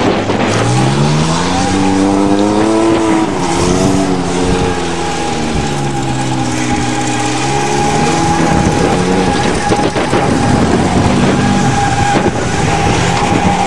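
Vehicle engine revving under load while spinning donuts. The revs climb from about a second in, drop around five seconds and climb again near eight seconds, with a steady high whine through the second half.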